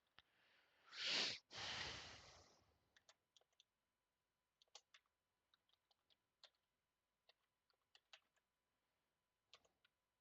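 Sparse computer keyboard and mouse clicks, a few at a time with pauses between. About a second in, a loud breathy rush of noise lasting about two seconds, briefly broken, stands out above the clicks.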